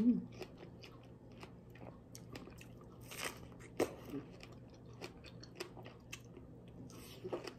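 Close mouth sounds of a person eating a fresh strawberry: soft biting and chewing with scattered small wet clicks and smacks, the clearest bites about three seconds in and just before four seconds.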